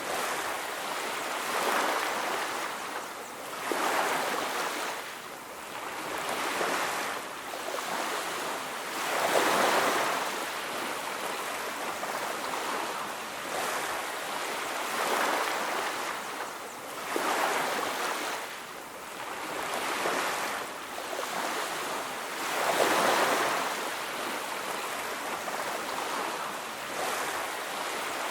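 Ocean surf washing onto a beach: a steady rush of breaking waves that swells and falls back every few seconds.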